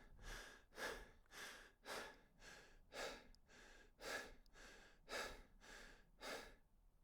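A person's fast, rhythmic heavy breathing or panting, faint, about two breaths a second, stopping near the end.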